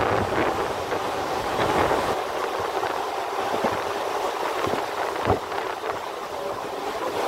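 Indian Railways EMU local train running at speed, heard from its open doorway: a steady rush of wheels on rails and air, with a few sharp clacks of the wheels, the loudest about five seconds in.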